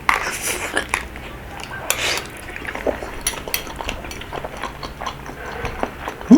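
Eating rabokki from a bowl: many short clicks of utensils against the dish, with brief wet sounds of the saucy noodles and rice cakes being stirred and slurped.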